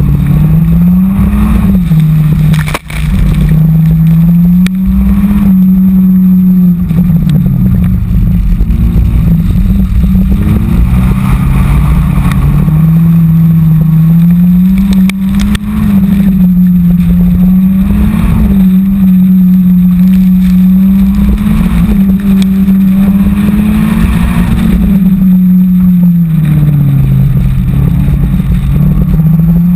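Subaru BRZ's flat-four engine revving up and down over and over as the car accelerates and slows through a wet autocross course, heard from outside the car beside the front wheel with steady road and wind noise. The sound briefly drops out about three seconds in.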